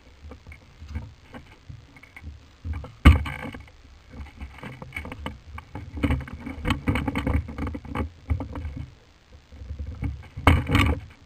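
Irregular thumps and rustling, with a sharp knock about three seconds in, a busy run of strokes in the middle, and two sharp knocks close together near the end.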